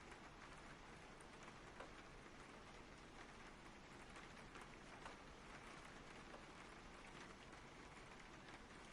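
Soft, steady rain falling, with scattered individual drops ticking through it.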